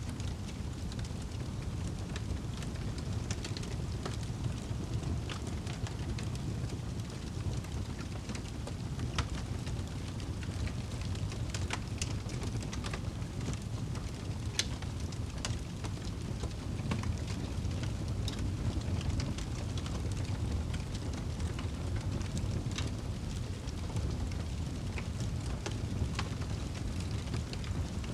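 Fire crackling in a fireplace: irregular sharp pops and snaps over a steady low rumble of flames.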